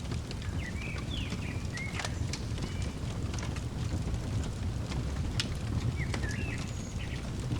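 Wood fire crackling with scattered sharp pops over a low rumble, while a bird calls in short swooping chirps, once about a second in and again near the end.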